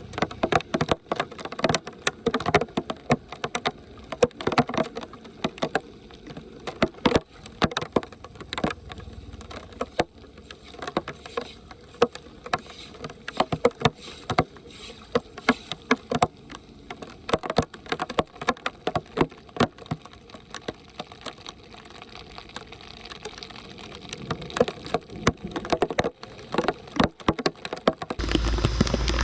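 Shallow water splashing with many irregular knocks and clatters, as debris is raked and pulled from a blocked street drain grate in the rain. Just before the end it gives way to a louder, steady rush of water.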